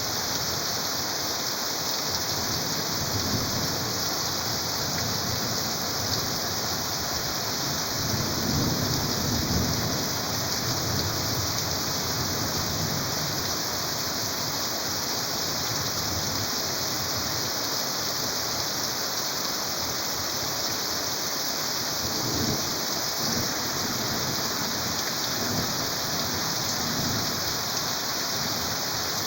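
Heavy rain falling in a steady, dense hiss. Low rumbles swell up now and then, the loudest about eight to ten seconds in.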